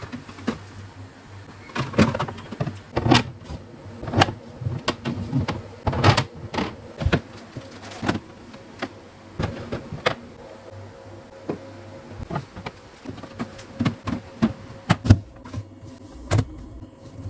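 Food containers and packaged items being handled and set down while a fridge is restocked: irregular clicks, taps and knocks of plastic and glass, some a few per second, over a faint steady hum.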